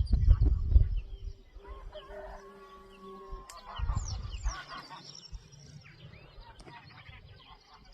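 A rooster crowing once, a drawn-out call of about two seconds, with small birds chirping high and briefly throughout. A low rumble fills the first second.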